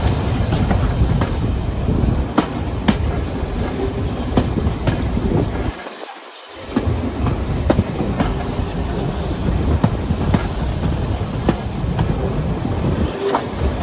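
Heritage train running along the line, heard from a carriage window: a steady deep rumble of wheels on track with irregular sharp clicks over the rail joints. The rumble drops away briefly about six seconds in.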